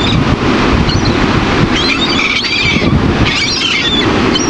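Seagulls giving short, high cries, a cluster about two seconds in and another a second and a half later, over a heavy rumble of wind on the microphone.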